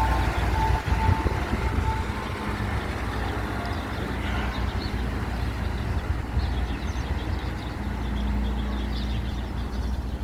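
Motor vehicle engine running with a steady low rumble. An ice cream truck's chime tune fades out during the first couple of seconds.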